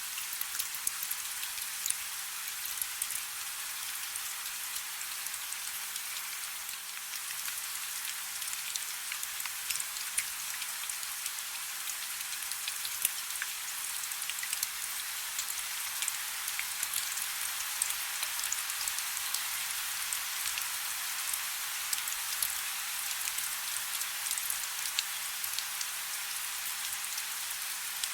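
Soft rain falling: a steady hiss with many small, scattered drop ticks and no low rumble.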